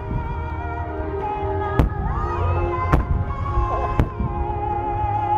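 Large shakudama (10-go) firework shells bursting in a barrage: four sharp bangs roughly a second apart over a continuous low rumble. Music with long held notes plays over loudspeakers throughout.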